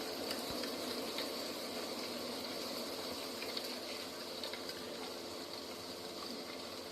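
Steady rushing nature ambience: a continuous even noise with a thin, steady high hiss above it and a few faint ticks.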